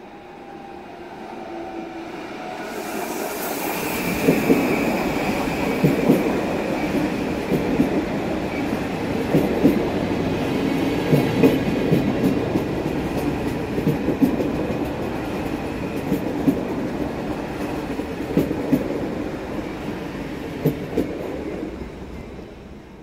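PKP Intercity electric multiple unit passing through on the far track. Its rumble builds over the first few seconds, then the wheels clatter over the rail joints in repeated clicks as the cars go by, and it fades away near the end.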